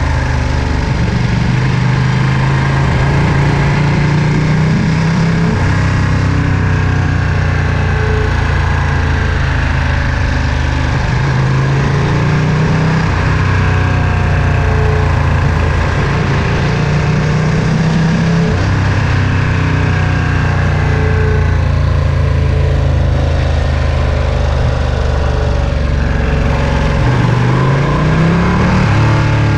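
Ducati Panigale V2's 955 cc Superquadro L-twin engine running under way, its note rising slowly and dropping back a few times, then rising quickly near the end.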